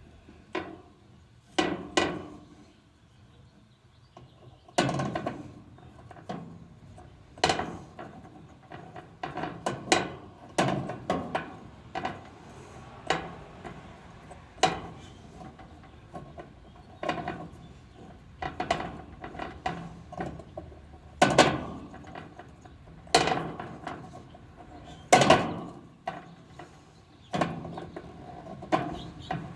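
Irregular metallic clanks and knocks of tools and parts being handled, one every second or two, some ringing briefly.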